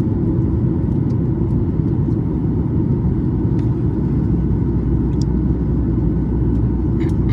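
Steady low rumble of a Boeing 737 MAX 9's engines and airflow heard inside the cabin, with a few faint clicks.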